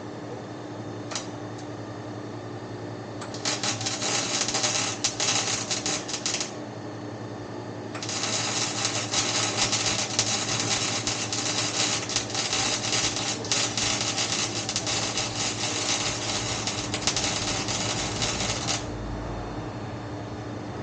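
MIG welder crackling in two runs, a short one of about three seconds and then a long one of about eleven, each starting and stopping sharply, as exhaust pipe is welded. A steady low hum sits underneath.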